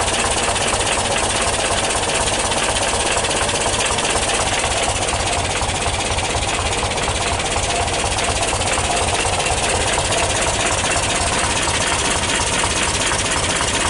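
1977 VW T2 Kombi's 2-litre twin-carb air-cooled flat-four running at a steady idle after a cold start, with a fast, even low pulsing.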